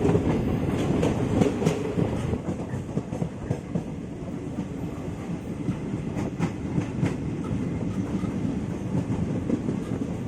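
The Kanchankanya Express passenger train running on the track: a steady rumble, with wheels clicking over rail joints. The clicks come thickest in the first couple of seconds.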